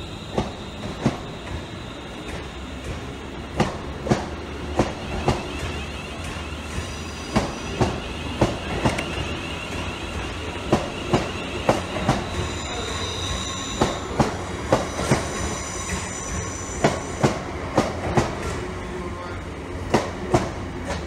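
Class 350 Desiro electric multiple unit pulling out past the platform and picking up speed. Its wheels click over a rail joint in regular groups of about four as each carriage passes, over a steady rumble and a high electric whine.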